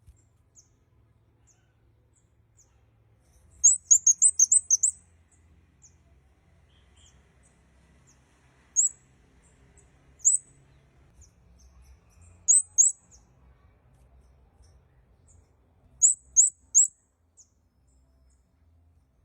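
Red-headed kemade calling: short, very high, thin chirps in groups. A quick run of about seven chirps comes a few seconds in, then single notes, a pair and a run of three, with faint softer ticks in between.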